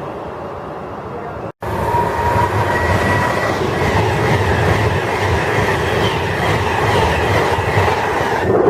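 Class 390 Pendolino electric train passing through the station: a steady loud rush of wheels and traction noise with a faint high whine. After a brief break in the sound about a second and a half in, it comes back louder.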